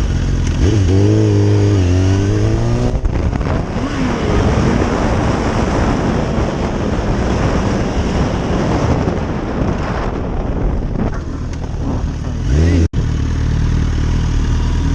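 Motorcycle engine revving up as it accelerates, then running under heavy wind rush. Near the end it revs up again, cuts off abruptly, and a steady engine note follows.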